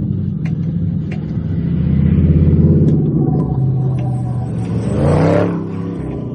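Car engine running, with a quick rev about five seconds in: the pitch sweeps up sharply and then drops back.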